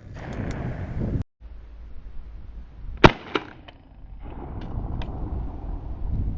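A shotgun shot about three seconds in, followed a third of a second later by a second, fainter crack and a few small clicks, over low wind rumble on the microphone.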